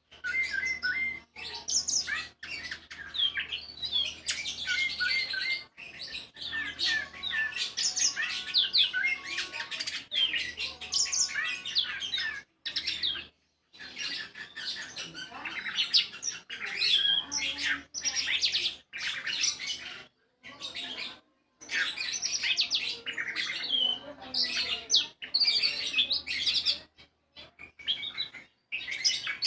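Anis (Geokichla ground thrush) singing a fast, varied song of many short chirps and whistles, broken by several abrupt short gaps.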